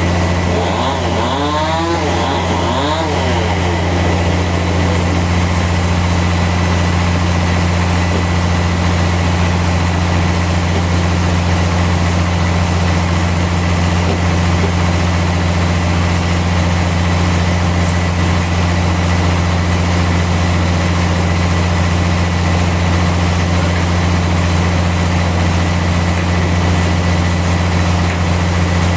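Sawmill engine running steadily with a constant low drone. In the first few seconds a sweeping sound rises and falls in pitch over the drone.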